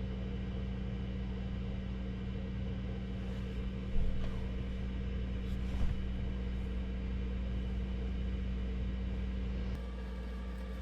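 A steady, low mechanical running hum, like an engine or heater, that drops away shortly before the end, with a couple of small knocks partway through.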